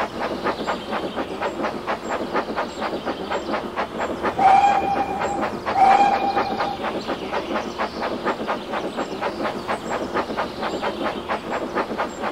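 A train running with a steady, fast rhythmic clatter, about five beats a second. It sounds its whistle twice, two held blasts about four and a half and six seconds in, the loudest sounds here.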